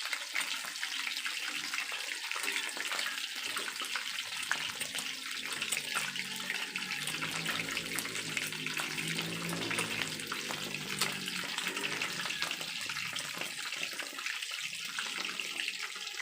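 Cornstarch-and-flour-coated chicken pieces deep-frying in hot oil at a full boil: a steady crackling sizzle with many small pops, as the chicken nears done.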